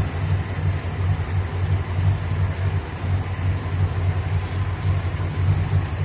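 V8 engine idling slowly and a little unevenly, on an ignition that the owner finds drops its spark at times.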